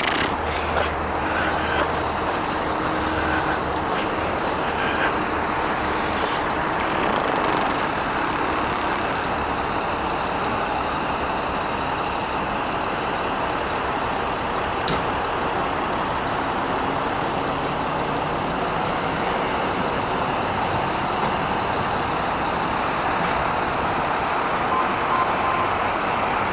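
Steady road noise of a motor vehicle driving, an even hiss and rumble with a few brief clicks.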